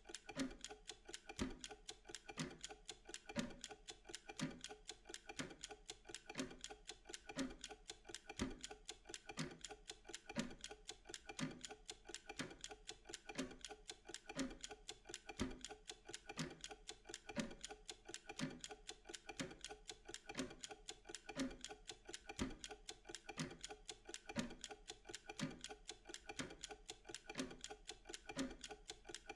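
Mechanical wind-up kitchen timer ticking steadily, about two ticks a second, as it counts down a Pomodoro work interval.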